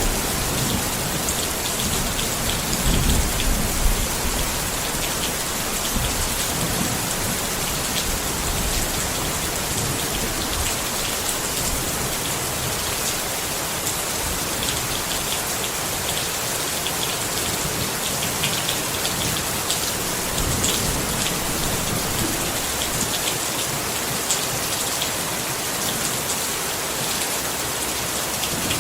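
Steady rain pattering on a tent, with individual drops ticking on the fabric. A low rumble of thunder dies away over the first few seconds.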